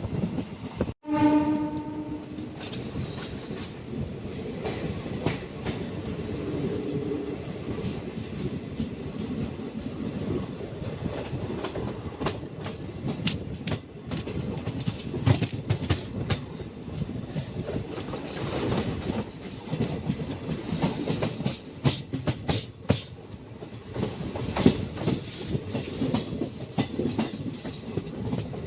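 ICF passenger coaches running along the track, a steady rumble broken by irregular clacks of the wheels over rail joints. About a second in, the WAP-4 electric locomotive's horn sounds once, briefly.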